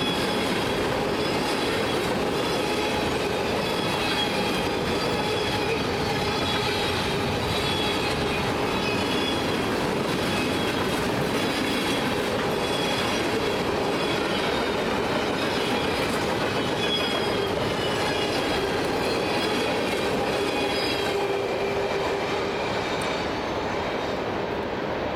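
Loaded trash-container flatcars of a Norfolk Southern freight train rolling past, steel wheels running on the rails with wavering high-pitched squeal. The sound eases a little near the end as the last car goes by.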